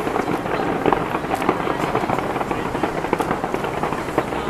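Fireworks going off in a dense, continuous run of crackling pops and bangs, with one sharper bang about a second in.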